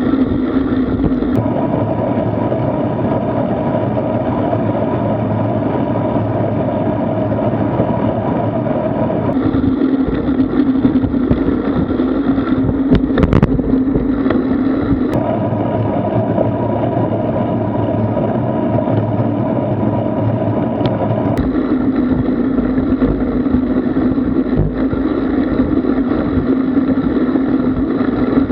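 Steady wind and road rumble on a bike-mounted action camera's microphone while riding, with a steady hum underneath. The tone of the noise changes abruptly several times, with a brief click about halfway through.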